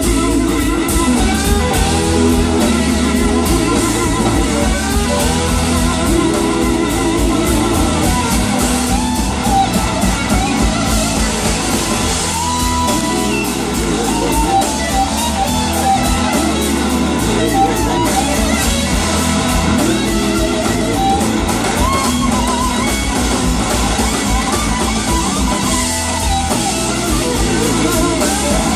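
A live blues-rock band playing: electric guitar lines over bass and a drum kit.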